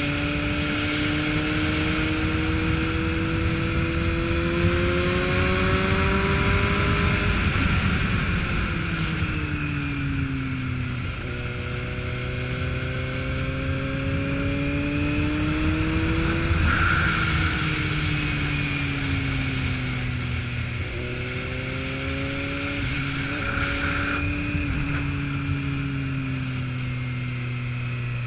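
Motorcycle engine running on the road, its pitch climbing slowly as it accelerates and sinking as it slows, three times over, over a steady rush of wind noise.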